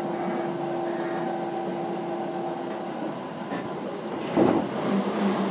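Seibu 4000 series electric train running between stations, heard on board: a steady rumble of running noise with a steady hum that fades out about three seconds in, and one loud clunk a little after four seconds.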